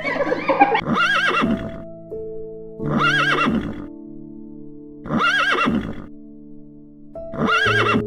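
A horse whinnying, the same call repeated four times about every two seconds, over background music with held notes.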